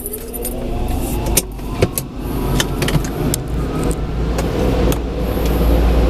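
Car moving off inside the wash bay: a whine that rises in pitch over the first couple of seconds, scattered clicks and knocks, and a low rumble that builds toward the end.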